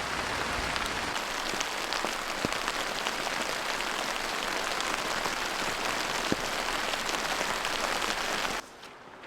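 Heavy rain falling steadily, a dense hiss with many sharp individual drop ticks, cutting off abruptly near the end.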